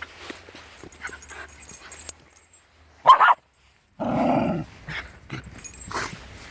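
Shiba Inu dogs at play: small yips and scuffling, with one loud sharp bark about three seconds in and a longer, lower growling bark about a second later.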